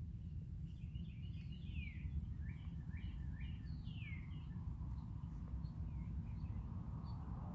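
Songbirds chirping: a scatter of short chirps, with two longer downward-sliding calls at about two and four seconds, over a steady low rumble.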